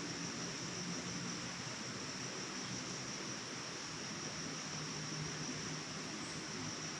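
Steady insect chorus in the forest: a continuous high-pitched buzz over an even, unbroken hiss.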